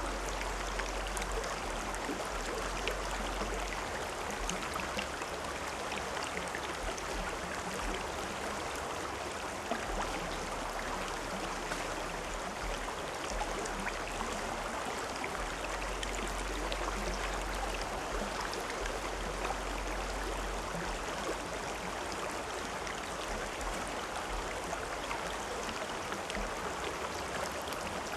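River water flowing steadily: a continuous rushing sound flecked with small splashes.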